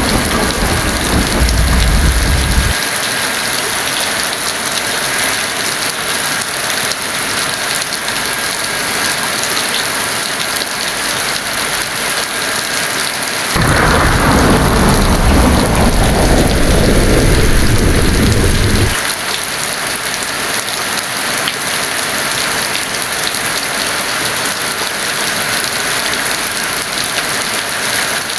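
Heavy rain falling steadily with thunder: a rumble that ends about three seconds in, then, around the middle, a sudden thunderclap that rolls for about five seconds before cutting off abruptly.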